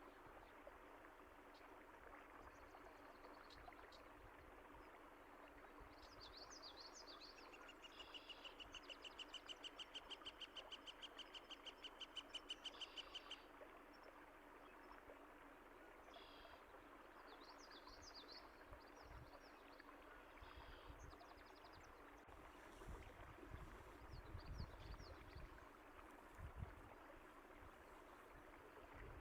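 Running water gives a steady, soft hiss while small birds chirp now and then. From about 8 to 13 seconds in, one bird sings a fast trill of rapidly repeated notes. Low rumbling swells come and go in the second half.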